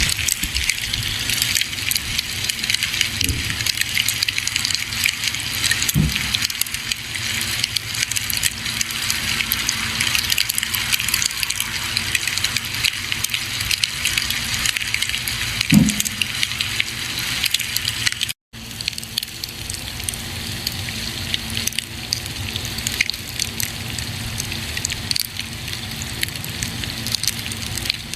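Campfire burning with a steady hiss and constant small crackles, with a couple of louder low pops from the wood. About two-thirds of the way through the sound cuts out for a split second and resumes.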